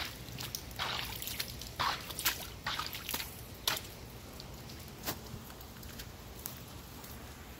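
Rainwater dripping and trickling after a shower: irregular drops falling, several a second at first and thinning out after about four seconds.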